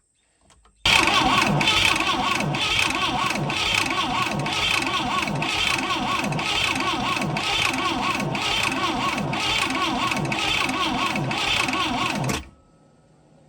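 Boat engine being cranked over by its electric starter, turning with an even pulse about twice a second for about eleven seconds without catching, then stopping abruptly. It turns over but will not fire even with fuel now reaching the carburetor, which the owner thinks needs a rebuild, perhaps with a stuck float.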